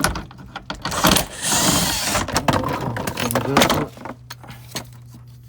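Clattering and scraping of the plastic under-engine cover of a Toyota Camry as it is worked loose and pulled down after its fasteners are out. A sharp knock starts it, and a loud scraping rush follows about a second in.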